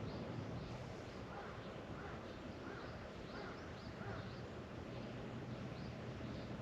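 Birds calling over a steady low hum: a run of about six short, arching calls in the middle, with fainter high chirps throughout.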